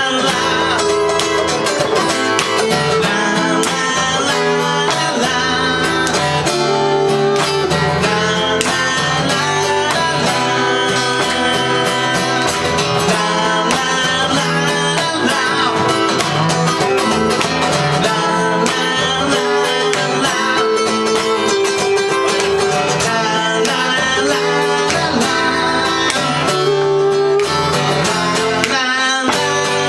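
Live acoustic guitar music, with a voice singing the melody.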